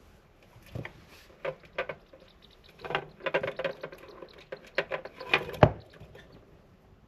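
A degu playing with a wooden ball: a run of irregular light knocks, clicks and scrabbling. The loudest is a sharp knock near the end.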